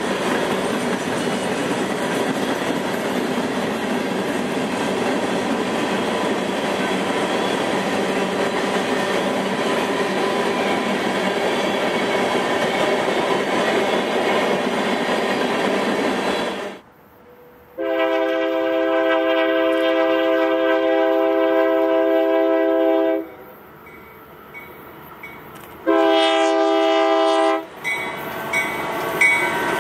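Freight cars rolling past with a steady rumble and wheel-on-rail clatter. After a sudden break, an approaching BNSF freight locomotive sounds its multi-chime air horn: one long blast of about five seconds, then a shorter blast. The locomotives' running noise rises near the end.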